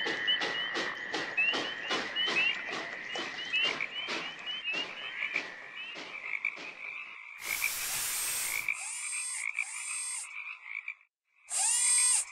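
Cartoon steam train chuffing at an even pace, about three chuffs a second, for the first six or seven seconds, then a short burst of hiss. Frogs croaking in a swamp follow in two groups toward the end.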